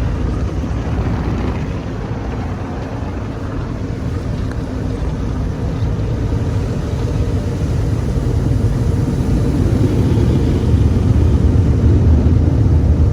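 Drive-through automatic car wash machinery running around the vehicle, heard from inside the cabin as a steady low rumble with a rushing hiss. It grows gradually louder toward the end.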